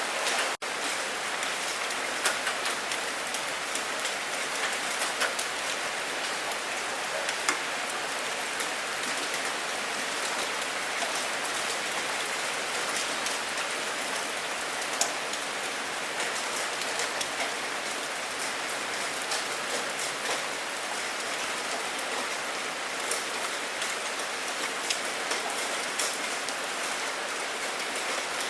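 Steady rain falling, with many single drops hitting close by over an even hiss; no thunder. The sound cuts out for an instant less than a second in.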